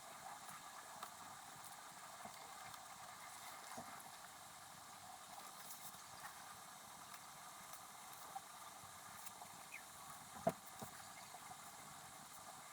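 Pen writing on paper, sped up: a faint, quick patter of small scratches and ticks over a steady hiss, with one sharper tap about ten and a half seconds in.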